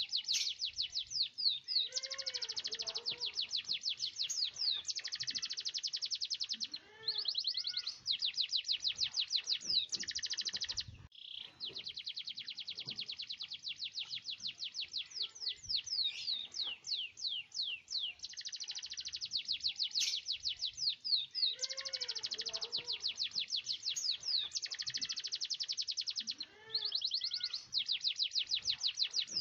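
Canary singing a long, nearly unbroken song of very rapid rolled trills and sharp high notes, with a brief pause about eleven seconds in.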